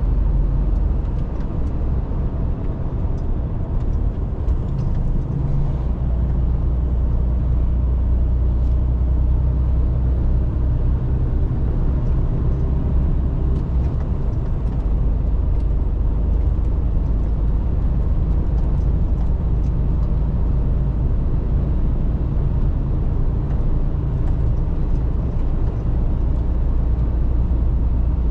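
Mercedes-Benz Actros truck driving at a steady speed: a continuous low diesel engine drone with tyre and road noise.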